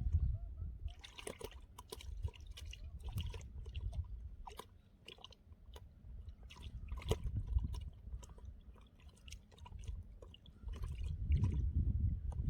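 Water sloshing and splashing with scattered small clicks and knocks, over a low rumbling that swells and fades in waves.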